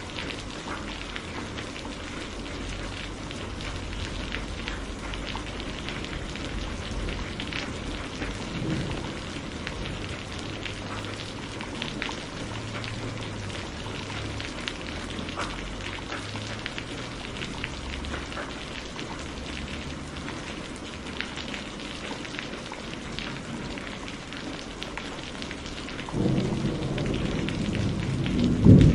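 Steady rain falling, with scattered individual drops ticking on a hard surface. Near the end a low rumble of thunder swells in and becomes the loudest sound.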